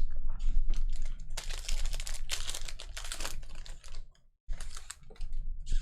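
A quick run of light clicks and taps, with a rustle through the middle.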